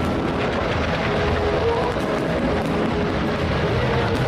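Fireworks display: a dense, continuous crackle and rumble from many bursting shells, with a few sharper bangs near the end.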